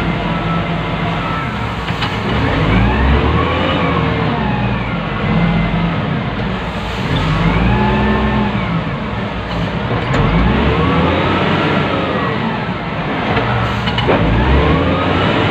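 Wheel loader's diesel engine heard from inside the operator's cab, revving up and dropping back several times as it works, with a whine that rises and falls along with the revs.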